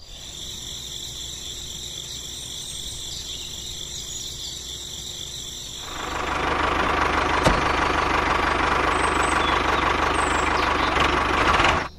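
Tractor engine running steadily, fairly quiet at first, then much louder from about six seconds in as the tractor comes close; it cuts off sharply just before the end.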